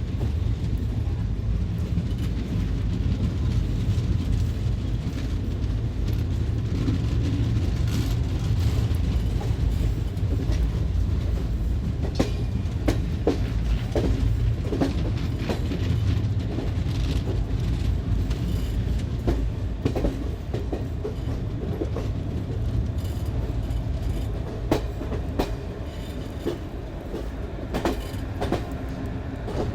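Passenger express train coaches rolling past along the platform: a steady low rumble with irregular clicks and clanks of wheels over rail joints, easing slightly near the end.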